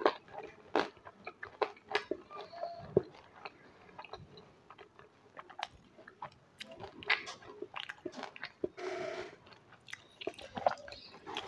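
Close-miked chewing and biting of crunchy food: many short, sharp crackles with softer mouth sounds between them, and a longer sound about nine seconds in.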